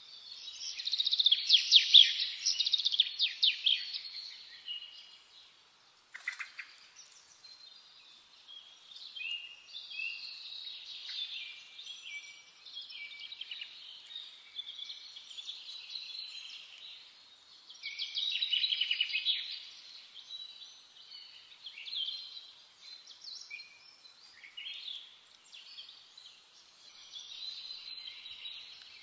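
Birds singing and chirping in repeated short trills and phrases, loudest in the first few seconds and again about 18 seconds in.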